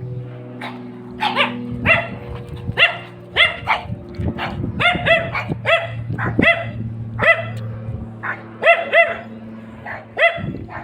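A dog barking repeatedly, about twenty sharp barks in irregular runs, over a steady low drone.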